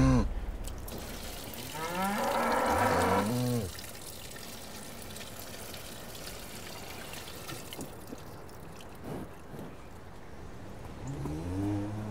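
Cow mooing: one long moo whose pitch rises and falls about two seconds in, and another starting near the end. In between, milk being poured out splashes faintly onto a stone floor.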